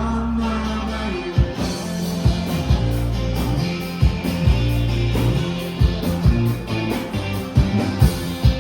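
Live rock band playing an instrumental passage at full volume: amplified guitar over a held bass line, with the drums coming in with sharp beats about a second and a half in. No singing.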